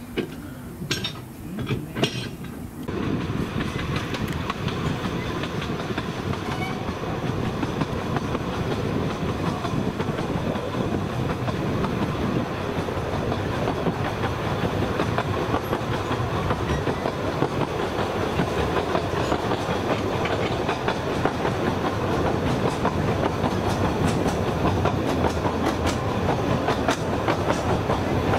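Narrow-gauge steam-hauled train running along the track, with the steady noise of wheels on the rails. A few short knocks come in the first couple of seconds, then the running noise sets in about three seconds in and grows slightly louder.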